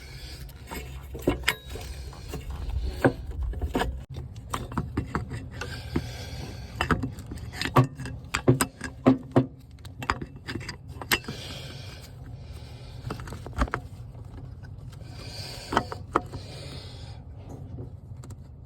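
Hand tools and bolts clinking and tapping against metal in irregular clicks and knocks while a starter is fastened into a Bobcat MT100's engine bay, over a steady low hum.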